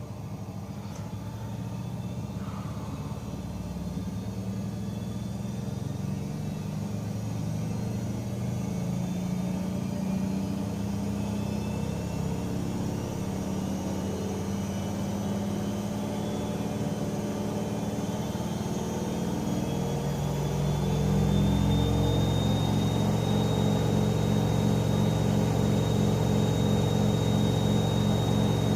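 AEG Öko-Lavamat 88840 front-loading washing machine spinning up: the drum and motor hum grows steadily louder and higher, with a rising motor whine that levels off about three quarters of the way in as the drum reaches high spin speed.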